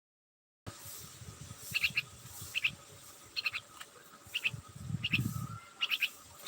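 A small bird chirping repeatedly, short high chirps in twos and threes roughly every second, beginning about a second in. A low rumble comes in under the chirps twice, the second time near the end.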